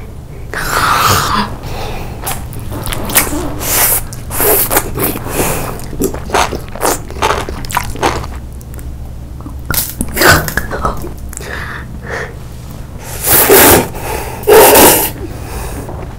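Close-miked eating sounds: a red squid-shaped candy bitten and chewed, with wet clicks and smacks from the mouth. Two loud breathy huffs come near the end.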